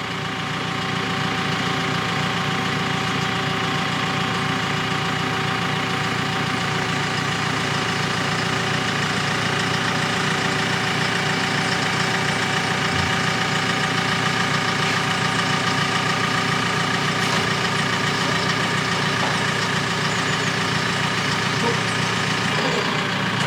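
JCB telehandler's diesel engine running steadily while its boom is worked to lower a load.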